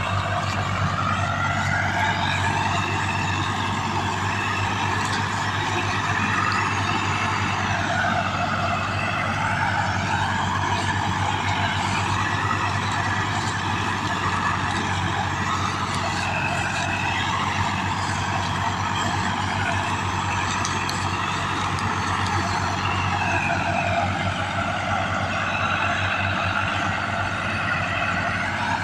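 Diesel tractor engine running steadily, its pitch slowly rising and falling several times as the revs and load change.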